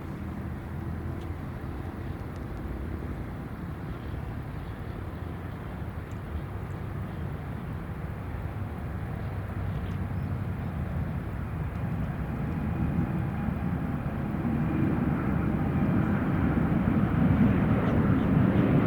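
Airliner engines rumbling and growing steadily louder as the plane approaches.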